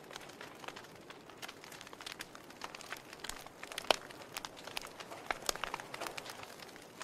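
Wood fire burning logs, crackling with irregular sharp pops over a soft steady hiss, one louder pop about four seconds in.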